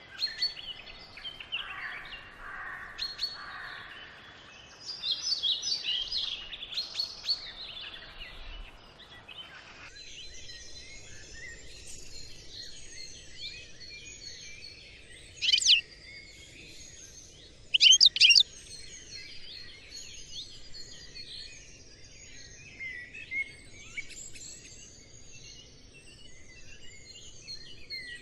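Many small birds chirping and twittering together in a dense, overlapping chorus, with a few much louder sharp chirps close by in the middle stretch.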